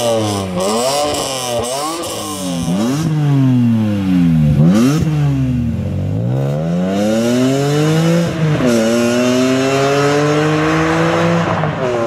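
BMW E46 M3's 3.2-litre straight-six revved hard through its exhaust in a few quick blips. Then an E46 accelerates away, its engine pitch climbing and dropping back twice at upshifts.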